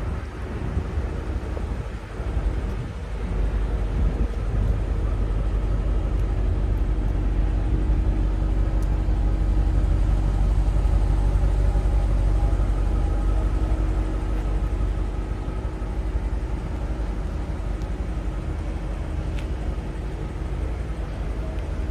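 BMW M850i Gran Coupe's twin-turbo V8 running steadily with a low exhaust rumble, growing louder about four seconds in.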